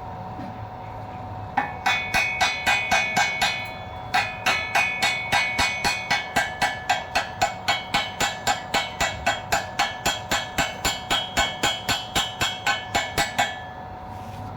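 Hammer striking steel in a fast, even rhythm of about four blows a second, each blow ringing, with a short pause after the first few blows; a steady hum runs underneath.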